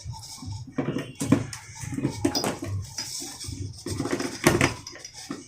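Hard small objects being handled, with irregular clinks and knocks.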